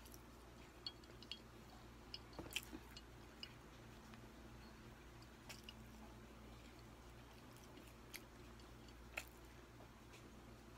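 Faint chewing with small wet mouth clicks now and then, over a low steady hum.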